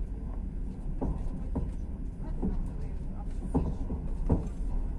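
Train running on the rails: a steady low rumble with sharp, irregular knocks every half second to a second.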